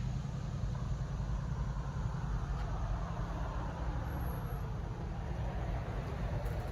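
GE diesel-electric locomotives running with a steady low engine rumble.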